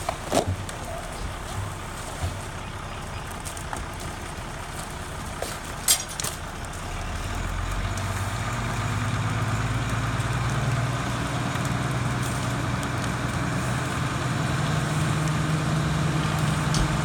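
Fire engine's motor running steadily, then its pitch and level rise gradually from about seven seconds in as the revs come up. A few sharp knocks early on.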